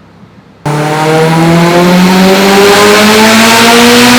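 Evo X's turbocharged 2.0-litre four-cylinder (4B11T), with a twin-scroll 6466 turbo kit and full exhaust, under wide-open throttle on a chassis dyno. It comes in abruptly and loud about two-thirds of a second in, and its pitch climbs steadily as the revs rise through a power pull.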